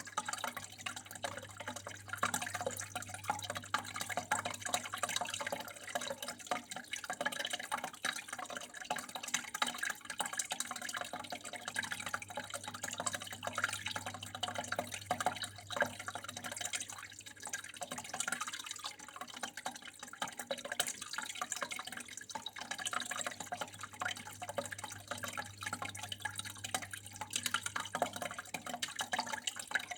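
Running water trickling and splashing in a continuous stream of irregular drips, over a steady low hum.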